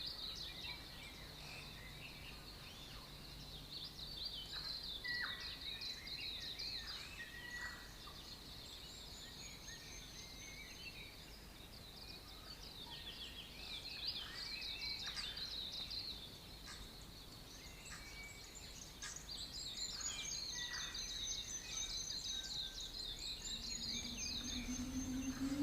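Backyard dawn chorus in New Zealand: many birds calling at once in overlapping chirps, trills and whistled notes, with some clear whistles that drop in pitch. A low rising hum comes in near the end.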